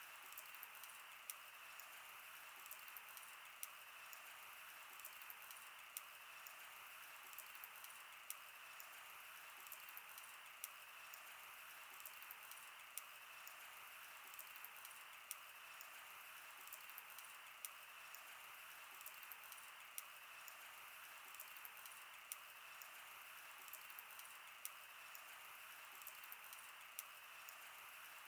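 Quiet wood campfire burning: a steady soft hiss with frequent sharp, irregular crackles and pops.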